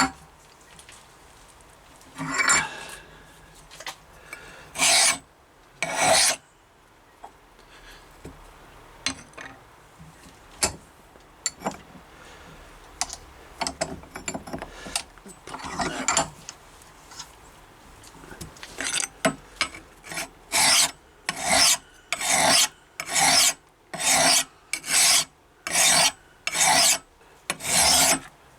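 Hand file rasping across the steel edge of a hatchet blade, putting a new edge on it. A few scattered strokes come first, then from about two-thirds of the way through a steady run of strokes at about one a second.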